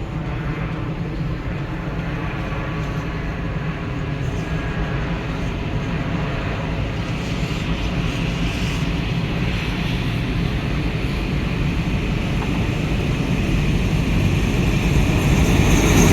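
Passenger train running, a steady low rumble that grows gradually louder toward the end.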